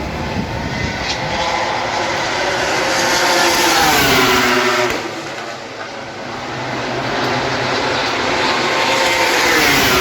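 MotoGP racing motorcycles at speed on the circuit. Their engine notes rise in pitch as a bike approaches and drop as it passes, about five seconds in, and another bike's note climbs again near the end.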